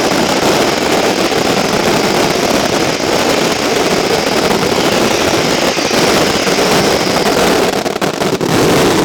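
Fireworks going off in a dense, continuous barrage: a loud steady din of rapid-fire bangs and crackle with a thin whistle above it, stopping abruptly at the very end.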